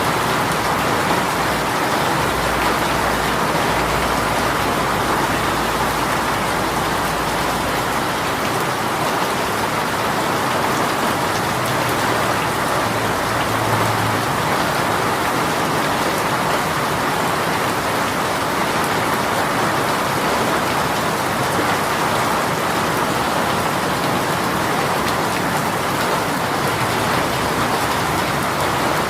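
Heavy shower rain falling steadily and evenly, with a faint low rumble in the first several seconds.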